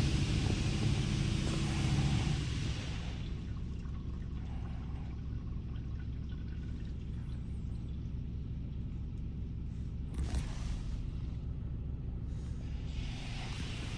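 Touchless automatic car wash spraying water over the car, heard from inside the car. The spray stops about three seconds in, leaving a low steady rumble of the wash equipment, with a short burst of spray about ten seconds in and the spray starting again near the end.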